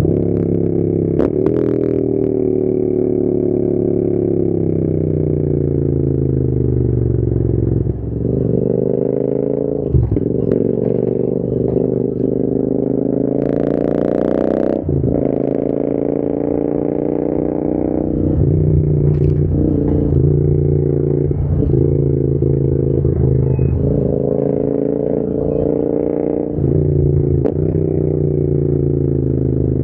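Royal Enfield Interceptor 650's parallel-twin engine running through an aftermarket AEW TE101 exhaust on the move. For the first several seconds the note falls steadily as the bike slows. It then rises and falls with the throttle, with brief dips at gear changes about eight, ten, fifteen, eighteen and twenty-seven seconds in.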